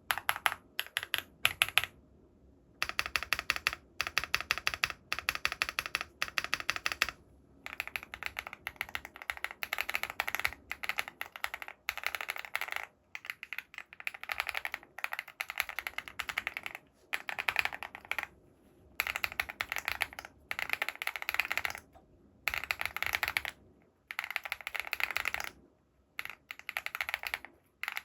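Typing on a Wobkey Crush 80 mechanical keyboard: fast runs of keystrokes broken by short pauses.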